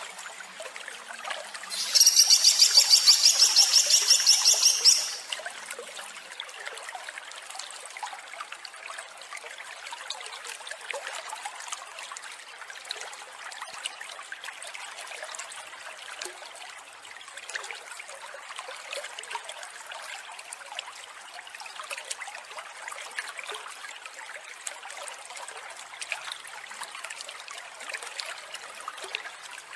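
A songbird gives a loud, rapid series of harsh repeated high notes, a 'tembakan' burst, for about three seconds near the start. Then only trickling water runs on steadily.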